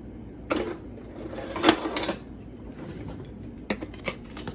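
Kitchen handling noises as seasoning is added to a bowl of raw chicken: two short rustling, scraping bursts in the first two seconds, then several light clicks and clinks near the end.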